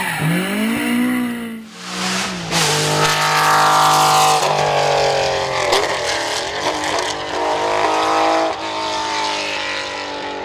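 Historic rally car engines at full throttle on a stage, revs climbing and dropping again and again as the cars shift gears and brake for corners.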